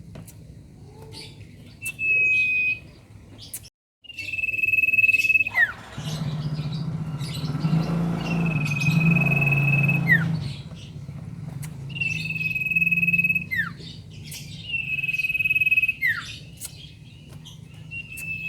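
A common iora (sirtu) singing its call five or six times: a long, level, high whistle that ends in a quick downward slur, repeated every few seconds. A low rumble runs underneath and grows louder for a few seconds in the middle.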